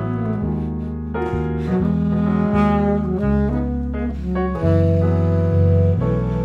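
Tenor saxophone playing a waltz melody over a string quartet, double bass and piano, with sustained notes shifting from chord to chord.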